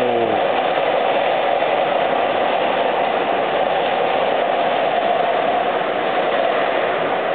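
Steady rain falling, an even hiss that holds at a constant level.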